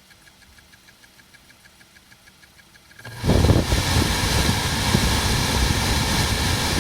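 Ford Focus 2 climate-control blower fan, which has an intermittent fault, comes on about three seconds in and runs with a loud rush of air over a low rumble. Before that there is only a faint, fast ticking.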